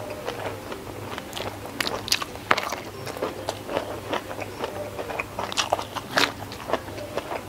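Close-miked eating: wet chewing with many sharp mouth clicks and smacks. About six seconds in come louder snaps as a whole boiled round green eggplant is bitten into.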